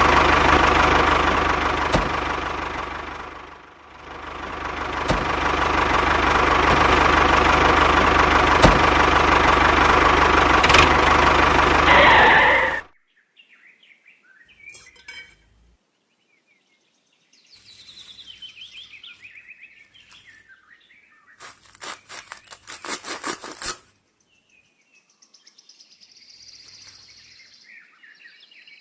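A motor runs steadily with a brief dip about four seconds in, then cuts off abruptly about 13 seconds in. After that there are faint bird chirps and a short rattling burst.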